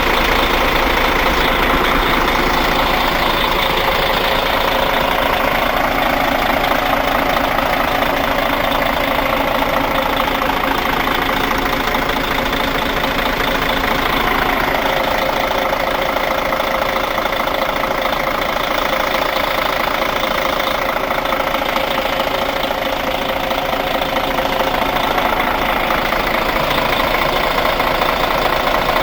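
The diesel engine of a 2012 Kia New Granbird Parkway coach, idling steadily, with a slight change in pitch about halfway through.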